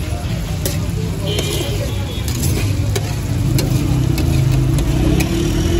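Mutton liver frying on a large steel tawa, sizzling and hissing under a pour of liquid that sends up steam, with the metal spatula clicking irregularly against the griddle. A motor vehicle's engine hum runs underneath, rising in pitch over the last couple of seconds.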